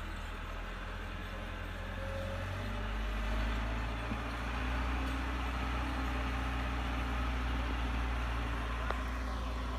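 Massey Ferguson tractor's diesel engine running steadily, growing louder about two and a half seconds in and holding there.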